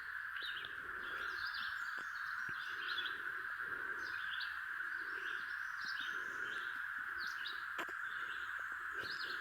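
Birds chirping outdoors, with many short calls repeating throughout. Softer low notes come about twice a second, and a steady high drone runs beneath them.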